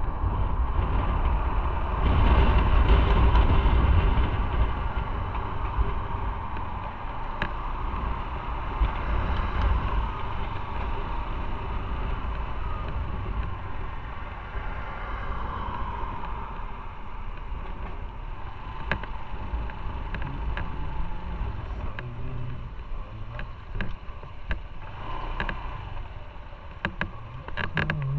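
Motorcycle running on the road, a steady low rumble with road and wind noise, loudest a couple of seconds in and then easing off.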